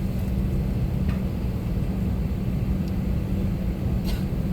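Steady low rumble and hum of an Airbus A321-200 airliner heard from inside its cabin, with a couple of faint clicks about a second in and near the end.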